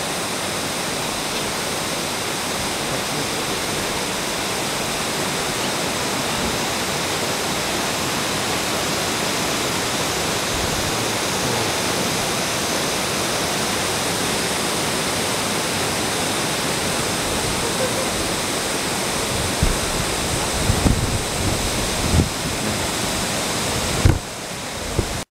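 Waterfall's steady rush of falling water, a dense even roar. Near the end a few low thumps break in, and the sound dips and cuts off abruptly.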